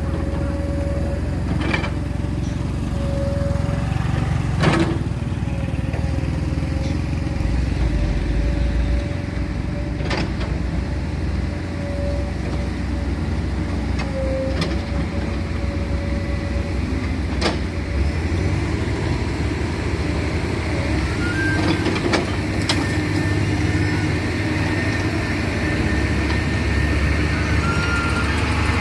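Heavy vehicle engines running steadily with a low rumble, with a few sharp knocks every few seconds.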